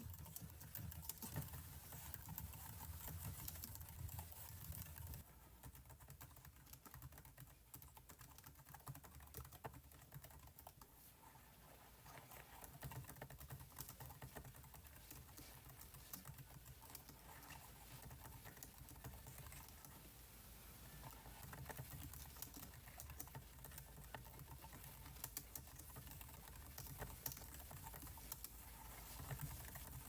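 Computer keyboard typing: quick, irregular key clicks, softer for several seconds about a fifth of the way in.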